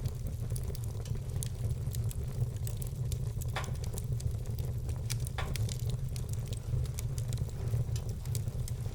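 Wood fire burning in a fireplace: scattered crackles and pops of burning logs over a steady low rumble, with two sharper pops midway.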